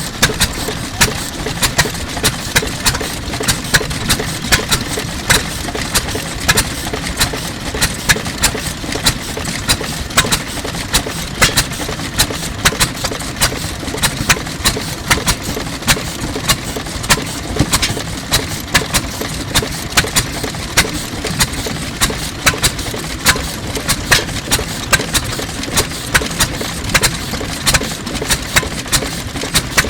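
1920s Fairbanks-Morse Type Z 3 hp single-cylinder stationary engine running steadily at idle, with a sharp report a few times a second over a low rumble.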